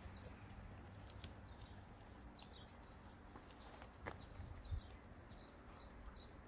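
Faint background bird chirps: short high falling notes, one or two a second, over a low steady outdoor rumble. A soft low thump comes about two-thirds of the way through.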